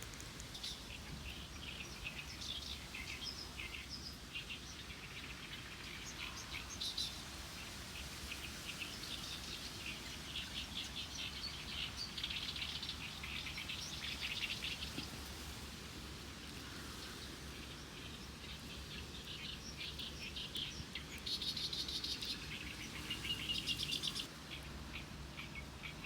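Small birds chirping and singing in quick, repeated high calls, with denser bursts of trilling at times, over a low steady hum.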